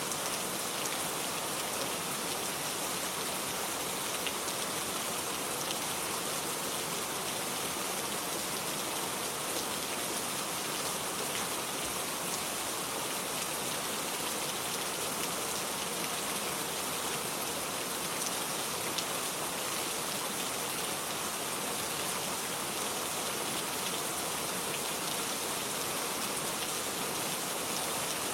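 Steady rain falling, with a hiss and scattered small drop ticks and no change in level.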